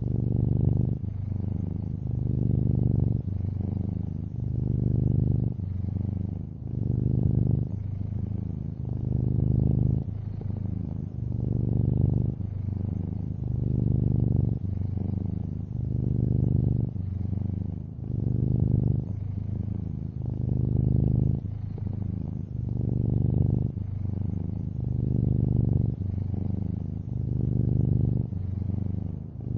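Domestic cat purring steadily: a low, continuous rumble that swells and eases in an even rhythm about every two seconds as the cat breathes in and out.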